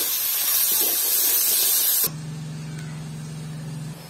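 Chopped tomatoes sizzling loudly in hot mustard oil in a steel wok as a spatula stirs them. The sizzle cuts off suddenly about two seconds in, leaving a low steady hum.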